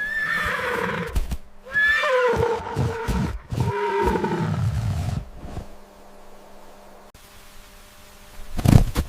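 An animal calling twice, each call starting high and falling in pitch, the second long and wavering. Near the end comes a short, loud thump.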